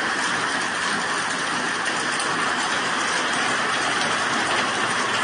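Heavy tropical-storm rain pouring down in a steady, dense hiss with no letup.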